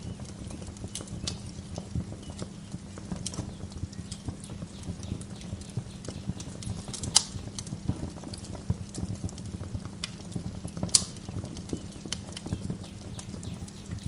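Wood fire crackling in a fireplace: a dense run of small crackles over a steady low rumble, with two sharp pops about 7 and 11 seconds in.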